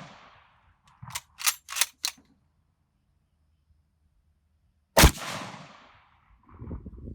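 Mosin-Nagant bolt-action rifle firing. The echo of one shot dies away, then the bolt is worked with four quick metallic clicks about a second in. A second shot comes about five seconds in, its report echoing and fading over about a second.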